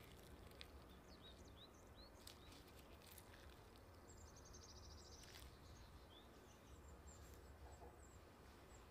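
Near silence with faint birds chirping in the background: several short chirps, a quick trill around the middle and more chirps near the end, over a low steady hum and a few faint clicks.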